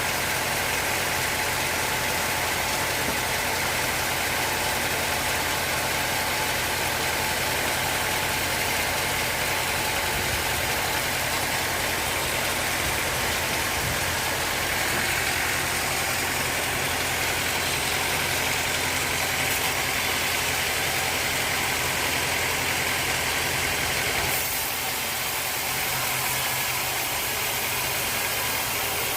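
Sawmill machinery running steadily: a constant engine drone with a hiss of cutting noise over it. About 24 seconds in, the low drone drops a little.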